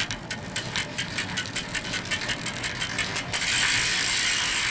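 Bicycle rear freehub ticking rapidly, about seven clicks a second, as the bike rolls without pedalling. About three-quarters of the way through the ticking stops and a steady rushing noise takes over.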